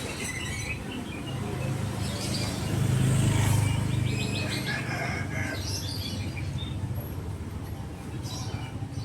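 Town street ambience: a low engine rumble from passing traffic swells to its loudest about three seconds in, with small birds chirping over it.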